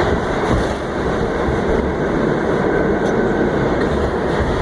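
An R68A subway car running along the track, heard from inside the car: a steady rumble and rattle of wheels on rail and the car body.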